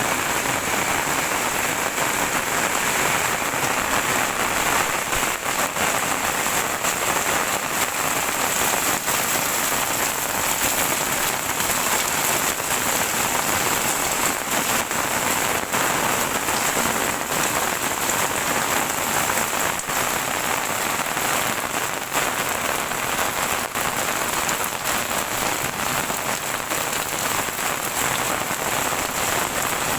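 Heavy rain falling steadily, a dense even hiss with the patter of many drops striking nearby surfaces.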